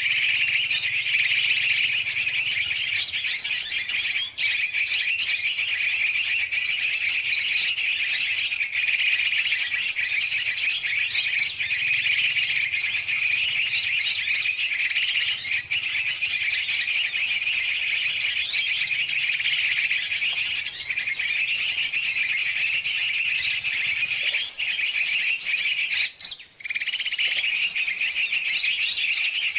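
Bird-lure recording for the sooty-headed bulbul (trucukan): a dense, noisy chorus of many large and small birds chirping and twittering over one another without pause. A short break near the end.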